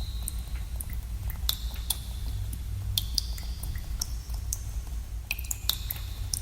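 Water drops falling into a pool in a cave, each a sharp plink that rings briefly with an echo, at irregular intervals, with a few fainter ticks between them. A steady low rumble runs underneath.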